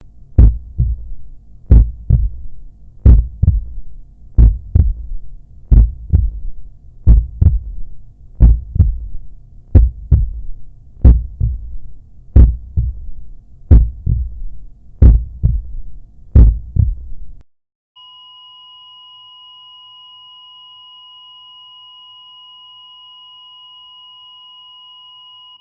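Heartbeat sound effect: about a dozen slow lub-dub thumps, one every second and a third or so. The beats stop, and a second later a heart monitor's continuous flatline beep begins: the heart has stopped.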